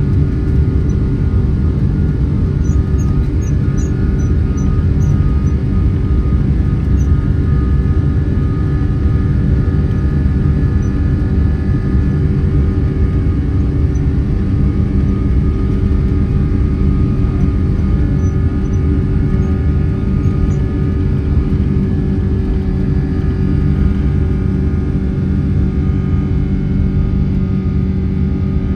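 Cabin noise inside a Boeing 777-300 with Rolls-Royce Trent 800 engines: a loud, steady low rumble with a steady engine hum over it.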